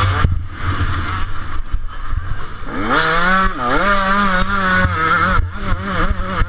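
125cc two-stroke motocross bike engine revving hard under throttle. The pitch climbs steeply about three seconds in, dips briefly, then holds high and wavering.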